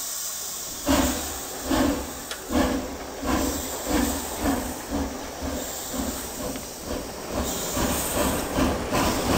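Steam locomotive sound from an O gauge model steam locomotive: a steady hiss of steam, then exhaust chuffs starting about a second in. The chuffs quicken from about one a second to about two a second as the locomotive pulls away.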